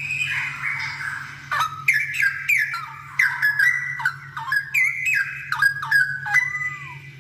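Straw-headed bulbul (cucak rowo) singing: a rapid run of loud, liquid whistled notes that slide up and down in pitch, starting about a second and a half in and stopping shortly before the end.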